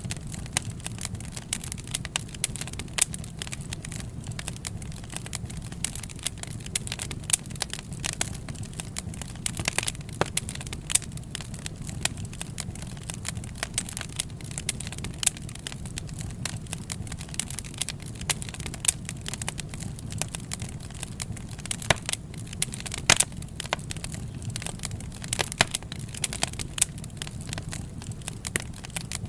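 Wood fire crackling: irregular pops and snaps over a steady low rumble of burning, with a few louder snaps about ten seconds in and near twenty-three seconds.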